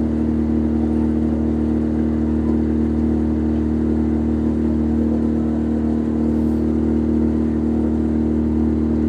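A boat's engine running steadily at a constant pitch.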